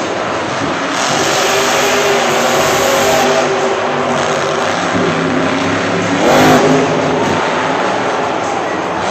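Monster truck engine running loud and revving, with a sweep in pitch and the loudest moment about six and a half seconds in.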